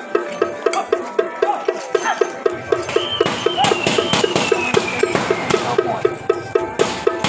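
Procession percussion from a temple troupe's gong-and-drum band: a fast, steady clacking beat about four or five strokes a second. About two and a half seconds in, louder crashing hits join in, and for a couple of seconds a high tone slides slowly downward.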